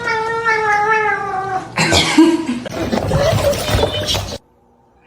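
A cat giving a long, drawn-out yowl that wavers and sinks slightly in pitch, ending about a second and a half in. A louder stretch of rough, noisy sound follows, then the sound cuts off abruptly near the end.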